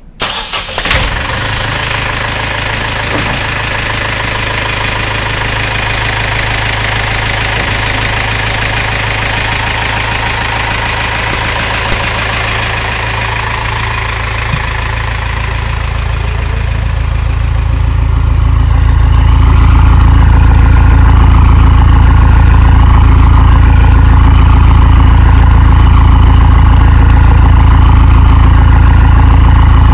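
Yanmar EF23Z boat's engine catching right at the start, after a brief burst, and then running steadily. From about 16 seconds in, it grows louder and deeper over a few seconds, then runs steady at the higher level.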